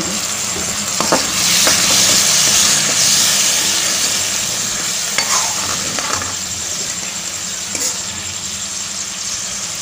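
Spiced onion-and-curd masala sizzling in hot mustard oil in a kadai, a splash of water just added to keep it from burning, while a spoon stirs and scrapes through it with a few short scrapes. The sizzle is loudest about two seconds in and slowly eases.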